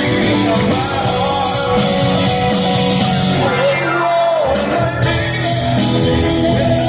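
Live rock band playing on stage, with sustained guitar and keyboard parts over bass and drums. A lead line bends in pitch about four seconds in, while the bass drops out briefly.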